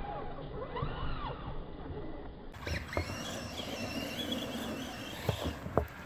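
Brushless electric motor of a Traxxas Rustler VXL RC car whining as the throttle is worked, its pitch rising and falling several times. Then a higher wavering whine runs, with a few sharp knocks near the end.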